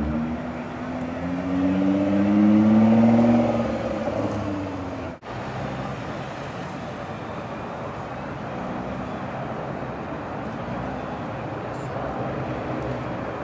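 Nissan GT-R's twin-turbo V6 revving as the car pulls away, rising in pitch and loudest about two to three seconds in. After a cut about five seconds in, the engine runs at a steadier, quieter note with a couple of small rises as it drives off.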